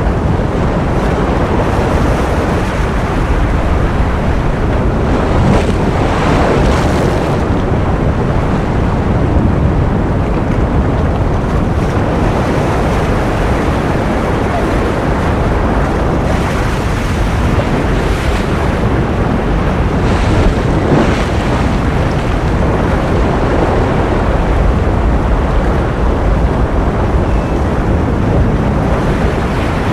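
Ocean surf as a loud, continuous rush of noise, heaviest in the low end, with waves swelling brighter every few seconds.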